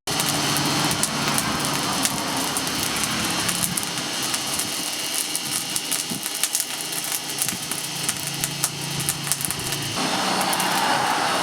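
A motor running steadily, with many rapid, irregular small clicks over it.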